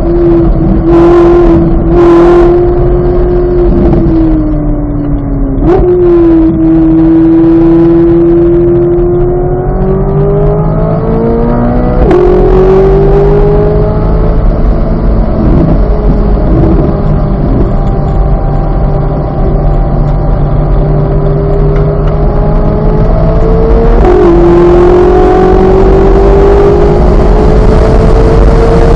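2023 Chevrolet Corvette Z06's flat-plane-crank V8 running hard on a road course. Its note climbs steadily under throttle and drops sharply at upshifts, about halfway through and again near the end. Before the first upshift the note sags and then jumps up. A steady low rumble of wind and road noise runs underneath.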